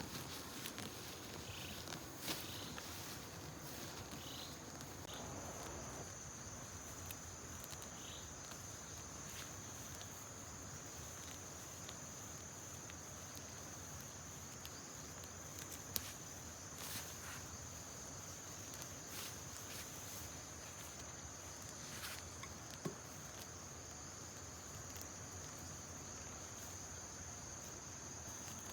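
Insects trilling in one steady high-pitched note, with a few faint clicks and some short chirps in the first seconds.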